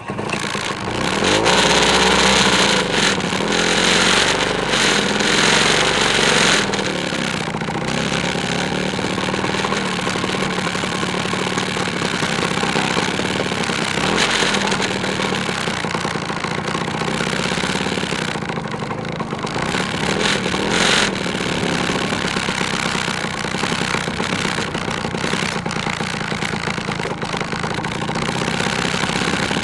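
Two-stroke motorcycle engine starting up, revving hard for several seconds, then running steadily as the bike moves off at low speed.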